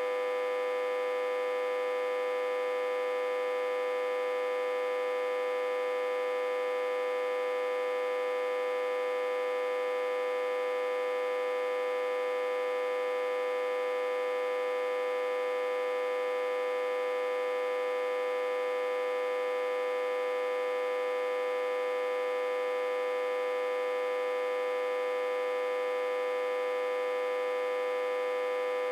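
Autotransformer humming steadily, reverse-connected to a step-down transformer and fed about 60–80 V: one unchanging, fairly high-pitched tone with a buzzy stack of overtones.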